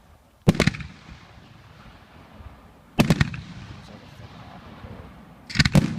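Fireworks going off: three clusters of sharp bangs about two and a half seconds apart, each cluster a few quick reports, with a rolling rumble after each.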